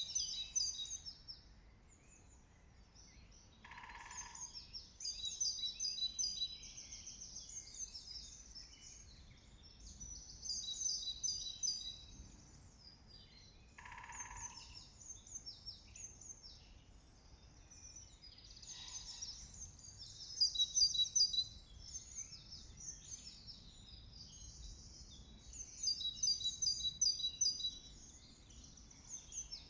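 Woodland songbirds singing, with high-pitched trilled song phrases coming every few seconds. A short, lower single note sounds twice.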